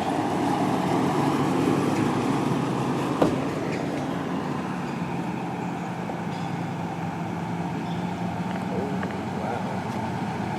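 A vehicle engine running steadily, with a single sharp knock about three seconds in.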